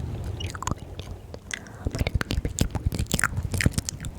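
Close-miked ASMR mouth sounds: a dense, irregular run of wet clicks and smacks, several a second.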